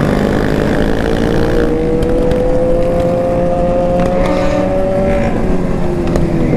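Several sport motorcycle engines running together at speed. One engine climbs steadily in pitch as it accelerates for a few seconds, then drops away near the end.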